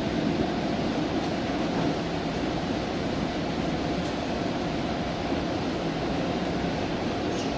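Steady rumbling noise of a passenger train in motion, heard from on board, with no distinct clanks or horn.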